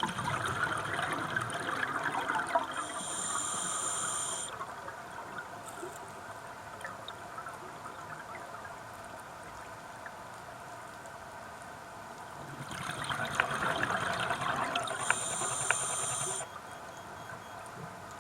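A scuba diver's regulator breathing, heard underwater: twice, about twelve seconds apart, a few seconds of crackling exhaust bubbles followed by a short whistling hiss of the regulator. Between the breaths there is a faint steady crackle.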